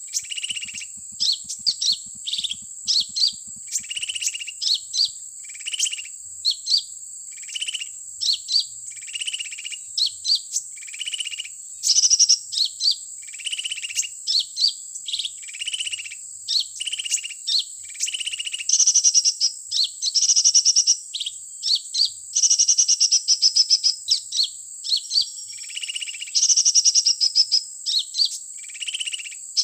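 Recorded sunbird (kolibri) calls played from an MP3 speaker as a lure: short chirping phrases repeated over and over, turning into louder, faster trills about twelve seconds in and again from about nineteen seconds on. A steady, thin, high-pitched tone runs underneath.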